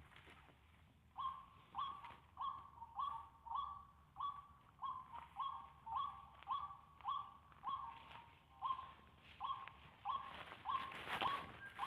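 White-breasted waterhen (ruak-ruak) calling, a short harsh note repeated steadily about twice a second, starting about a second in.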